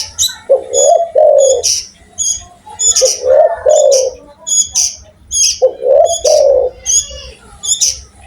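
A spotted dove (tekukur) cooing: three low two-note coo phrases, about two and a half seconds apart. Quick, high, repeated chirps from another small bird run on under and between them.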